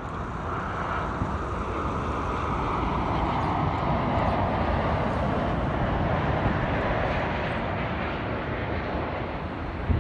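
Airliner on approach to land passing by, its engine noise swelling to a peak around the middle and slowly falling in pitch as it goes.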